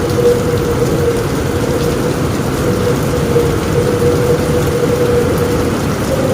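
Heavy rain falling steadily on a roof, with thunder rumbling low underneath and a steady hum throughout.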